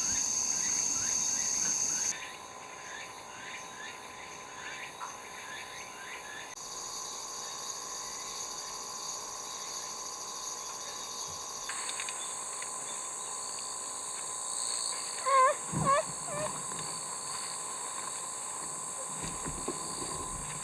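Insects chirring steadily in high, continuous tones, the mix changing abruptly a few times. About fifteen seconds in come two short, loud calls that sweep upward in pitch.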